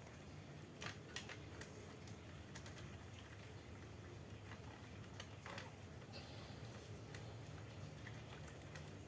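Faint scattered clicks and light taps, a few close together about a second in and more spread through the rest, over a low steady hum.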